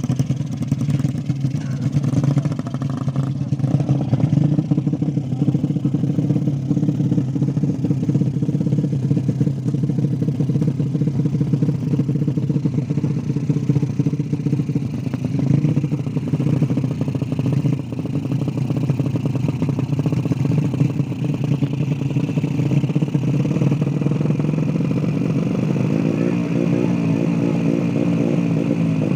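Small-displacement motorbike engine running steadily; from about 26 seconds in it revs, its pitch wavering up and down.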